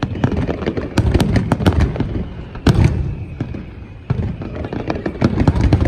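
Fireworks display: rapid volleys of sharp cracks and bangs over a low rumble, with one louder bang about three seconds in.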